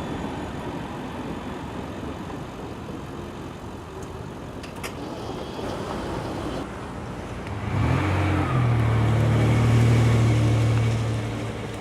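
Rumbling of passing traffic, then a vehicle's engine passes close by: a low hum that rises in pitch, holds loudest about two seconds, and fades near the end.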